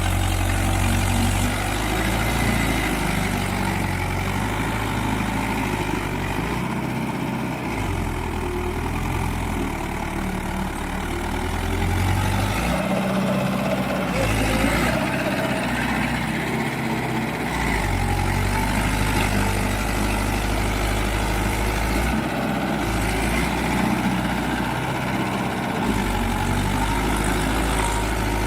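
Tractor diesel engine running steadily, its low rumble dipping and returning several times.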